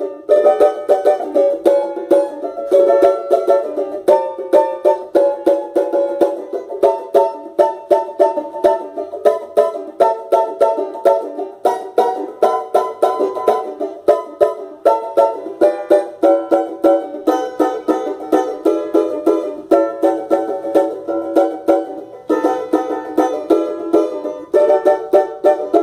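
Solo banjo being picked in a steady stream of quick, bright plucked notes.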